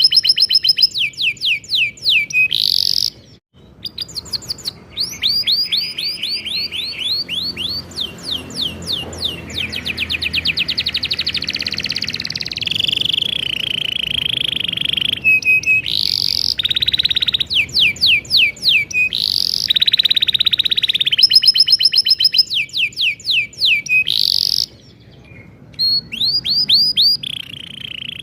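Domestic canary singing a long, continuous song of fast rolling trills and rapid repeated chirps, with two short pauses.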